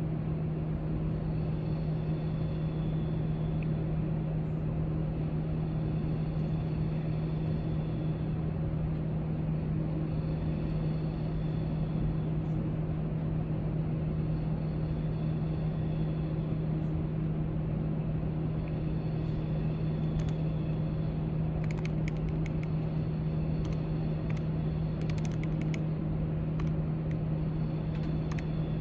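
Library room tone: a steady low hum over an even hiss, with a few faint light clicks a little past two-thirds of the way through.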